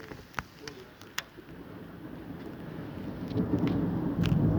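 Thunder rumbling, swelling steadily louder over a couple of seconds, after a few sharp ticks near the start.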